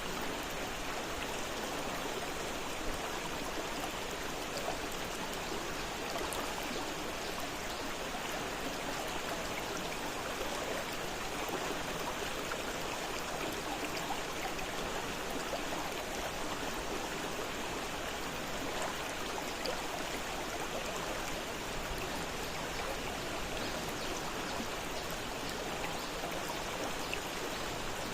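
A fast-flowing river rushing steadily over stones, an even splashing and gurgling of water.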